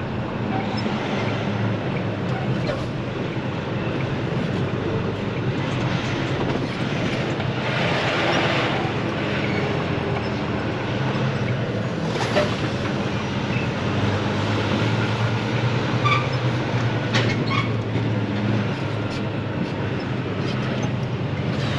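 Truck engine running steadily under a low hum while the truck is manoeuvred, with a few scattered clicks and knocks, more of them in the second half.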